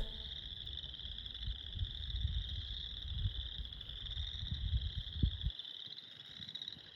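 A chorus of frogs trilling steadily, with an uneven low rumble underneath that dies away near the end.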